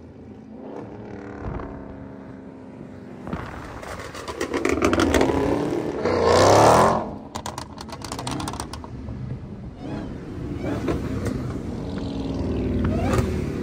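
Car engine accelerating hard twice, the pitch sweeping up with each surge about four and six and a half seconds in, then settling to a steadier run with road noise, heard from inside a moving car.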